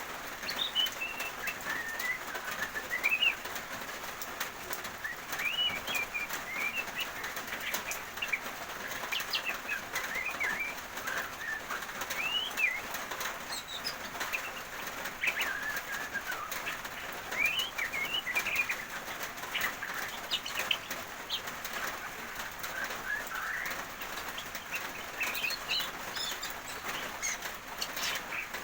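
Steady rain hiss with small songbirds chirping and twittering in short, scattered calls, and many light ticks.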